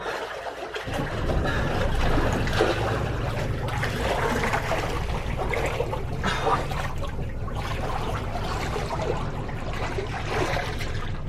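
Water rushing and trickling against a catamaran's hull while the boat is under way. A low steady hum sets in about a second in and runs underneath.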